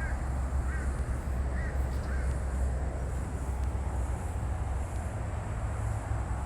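Steady rushing of floodwater with a low rumble throughout, and a bird calling four short times in the first two seconds.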